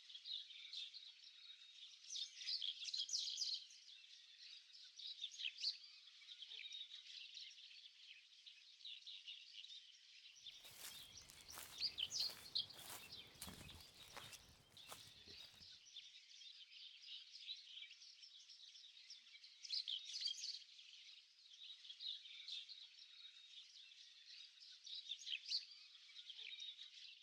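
Dense, continuous chorus of high-pitched chirps from swamp wildlife. About ten seconds in, a run of knocks and low rumble lasts some five seconds.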